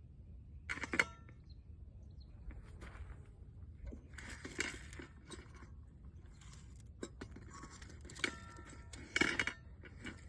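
Metal bird feeder clinking and rattling in irregular bursts while it is handled with a squirrel stuck inside, the loudest rattles about a second in, midway, and near the end.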